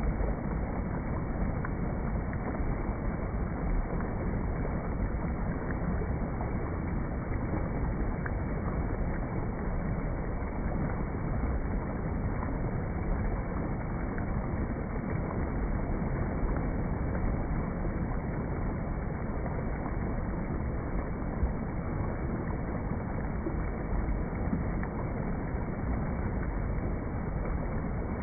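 Steady soft rain: an even, unbroken wash of noise with no distinct events.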